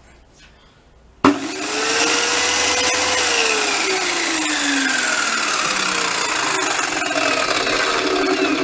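A circular saw mounted under a homemade table saw starts about a second in, spins up with a rising whine, then winds down slowly with the pitch falling steadily: a no-load test run of the newly fitted saw.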